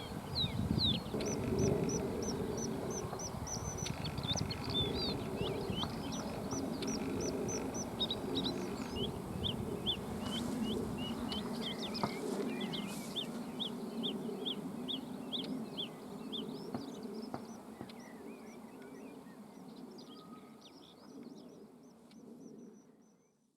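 Bluethroat singing: long runs of short, high chirps and quick whistled flicks in fast succession, over a low steady rumble. The sound fades out near the end.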